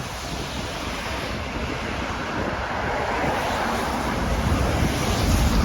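Wind buffeting the microphone over a steady wash of road traffic noise, swelling slightly near the end.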